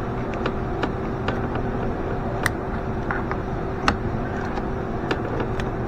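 A steady machine hum with scattered light clicks and taps.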